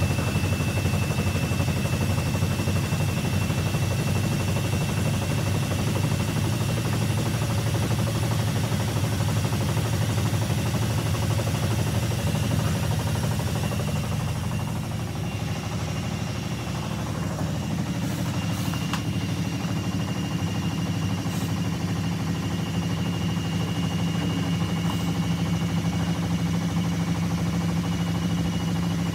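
Washing machine running with a steady motor hum and a high whine. About halfway through the sound dips, then settles into a new steady hum at a different pitch.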